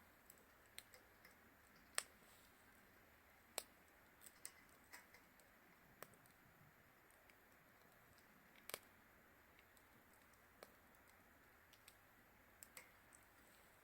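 Wood fire crackling: sparse, irregular sharp pops and snaps over a faint hiss.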